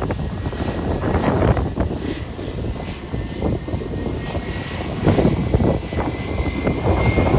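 Departing airliner's engines, a thin whine slowly rising in pitch, heard under heavy gusting wind buffeting the microphone.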